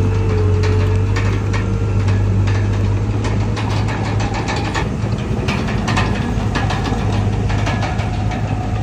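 Diesel engine of heavy earthmoving machinery running steadily with a deep hum, over frequent sharp clanks and rattles.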